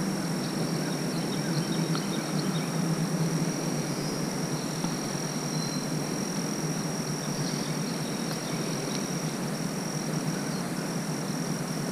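Insects droning outdoors in one steady high-pitched note, over a low even hiss.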